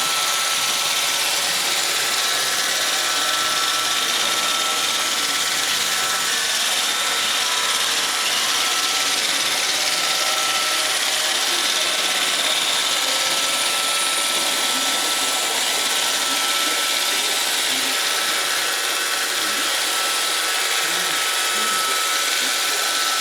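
iRobot Roomba 625 robot vacuum running: a steady whirring hiss with a thin high whine that drops out for a few seconds partway through.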